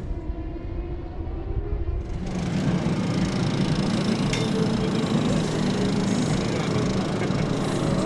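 Racing motorcycle engines running in a steady drone.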